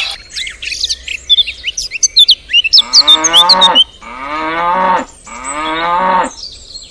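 Cow mooing three times in quick succession, each call about a second long, after a stretch of birds chirping.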